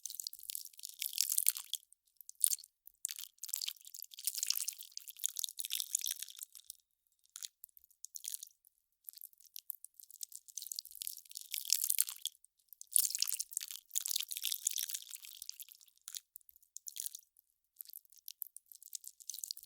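Melting ice crackling and popping: irregular clusters of fine, high crackles lasting one to three seconds, broken by short gaps.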